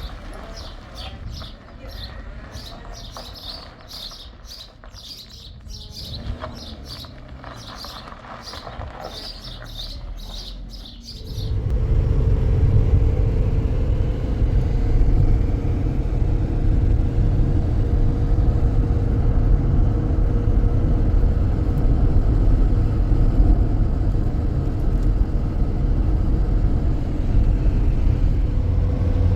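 A bird chirping rapidly, about three chirps a second. About eleven seconds in, a motor vehicle's engine and road rumble come in suddenly and much louder, with a steady hum, and run on.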